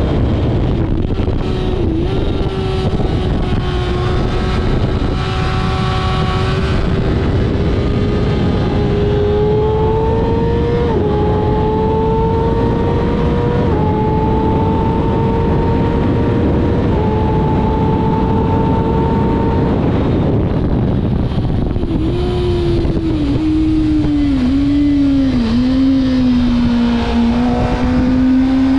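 Kawasaki ZX-6R inline-four sport bike engine running hard on a track lap, its pitch climbing and dropping in steps as the rider works the throttle and gears, under heavy wind rush.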